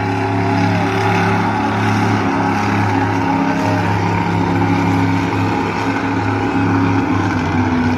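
Monster truck engine running loud and steady, its pitch dipping and rising a little near the middle.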